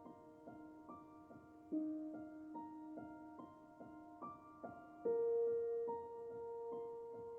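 Soft, slow background piano music: gentle notes a few to the second over long held tones, with a louder sustained note struck about five seconds in.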